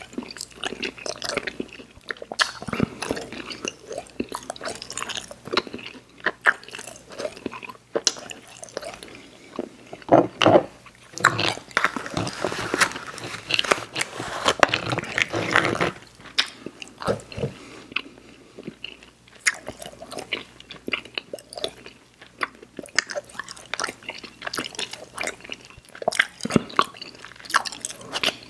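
Close-miked chewing of chewy Airheads Xtremes sour candy: a run of mouth clicks and smacks, busiest from about ten to sixteen seconds in.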